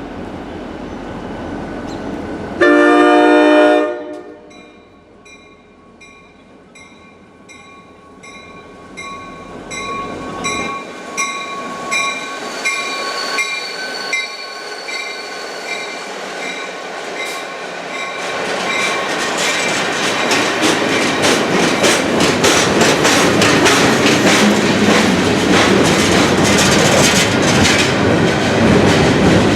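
NJT GP40PH-2B diesel locomotive's horn sounds one short blast, then a bell rings steadily as the work train approaches. From about two-thirds of the way in, the passing train grows loud, with wheels clicking over the rail joints.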